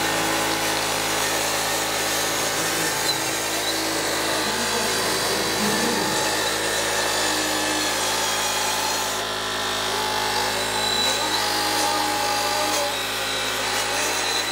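A motor-driven machine running steadily at a constant level, a continuous hum with a dense hiss over it.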